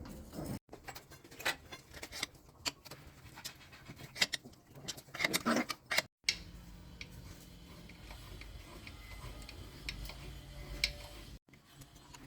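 Scattered light clicks and taps, irregular and unrhythmic, with a louder cluster of knocks about halfway through.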